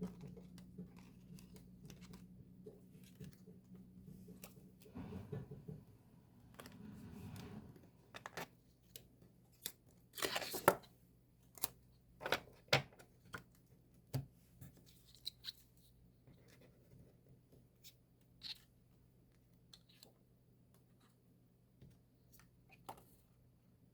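Album packaging being handled and opened: rustling, one sharp tearing sound about ten seconds in, and a few snapping clicks just after. A low hum runs under the first few seconds and stops.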